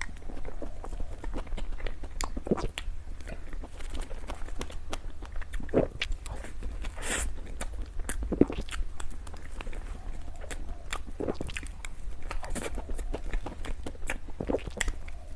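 A person biting and chewing dessert close to the microphone: irregular crunches and mouth clicks, the sharpest about eight and a half seconds in.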